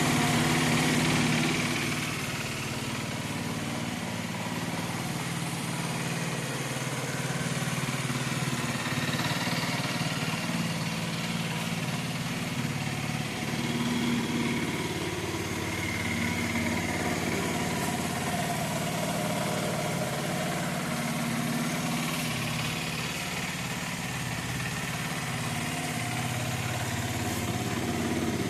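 Aprilia Tuono 125's single-cylinder four-stroke engine idling steadily, slightly louder in the first couple of seconds.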